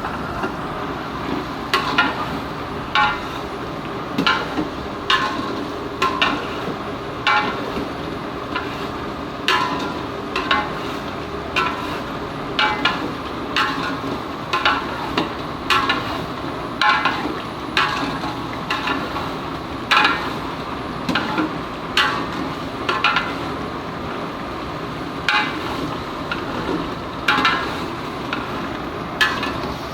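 A metal ladle knocking and scraping against a large metal cooking pot, roughly once a second and unevenly, as chicken gizzards are stirred. Each knock rings briefly, over a steady hiss of frying.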